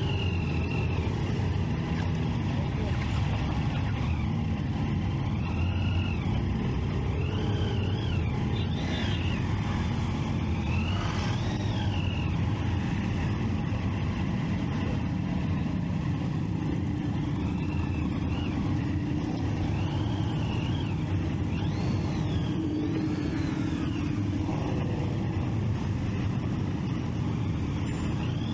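Triumph Street Triple 675 three-cylinder engine and road rumble at a steady level while riding. Short rising-and-falling whines, about a second each, come again and again.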